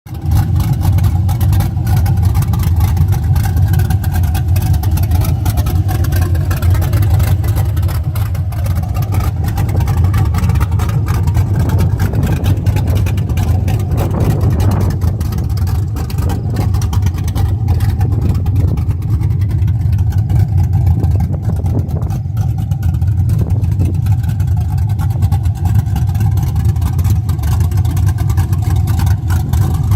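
5.3L LM7 V8 with a BTR Stage IV truck cam and long-tube headers idling steadily with a choppy cam lope.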